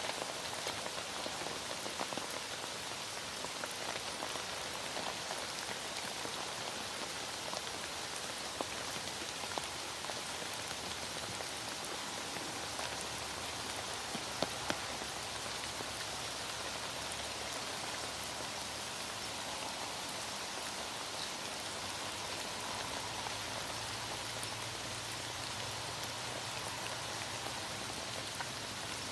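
Heavy rain falling steadily, a dense even hiss with scattered drops ticking on a surface, a few of them a little louder about halfway through.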